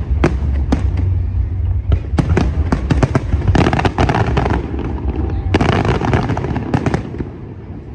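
Aerial fireworks bursting in rapid succession: sharp bangs and crackling over a deep rumble, thickest about halfway through and again from about five and a half to seven seconds in, then dying down near the end.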